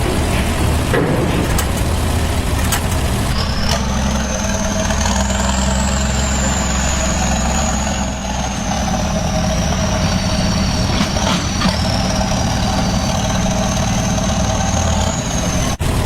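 A motor running steadily, with a low, even hum and a thin high whine that wavers slowly above it. A few faint clicks come through.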